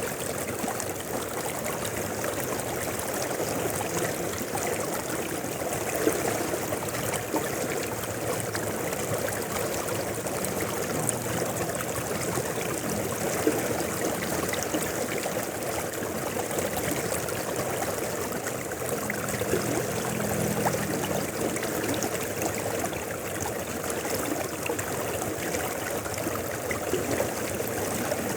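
A river flowing, with a steady rush and babble of water.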